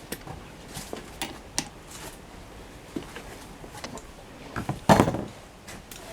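Tools and metal parts being handled while an outboard motor is dismantled: scattered light clicks and knocks, with one louder clatter about five seconds in.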